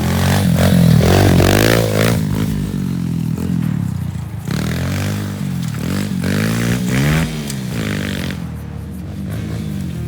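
Dirt bike engine revving hard as it is ridden, its pitch climbing and dropping back several times as the rider accelerates and backs off.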